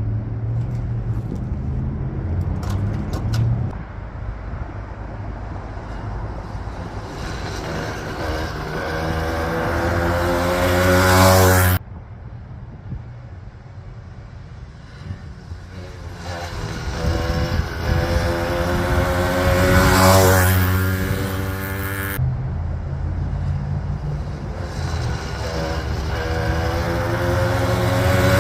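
Small 80cc two-stroke motorized-bicycle engine making repeated fly-bys. Its buzzing note climbs in pitch and grows loud as it comes by, then drops away. The sound cuts off abruptly twice, once about twelve seconds in and again about twenty-two seconds in, where separate passes are joined.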